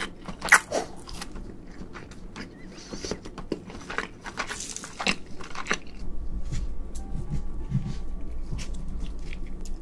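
Crunchy bites and chewing of shrimp, with many short crackles for about six seconds, then softer, wetter chewing with only a few crackles.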